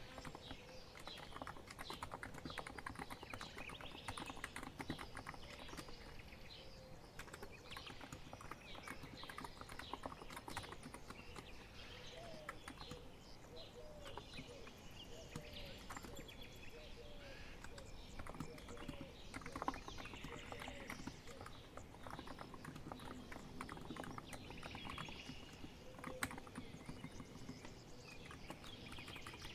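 Continuous typing on a COX Empress electro-capacitive keyboard, a rapid run of soft keystrokes, with short bird calls behind it for a stretch near the middle.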